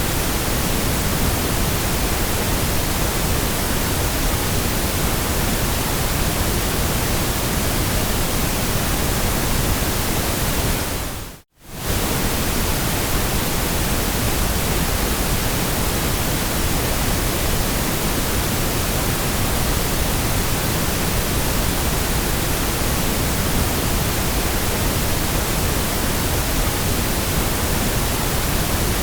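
Steady white-noise hiss, an even rushing spread from deep to high pitches. About eleven seconds in it fades to near silence for a moment and comes straight back.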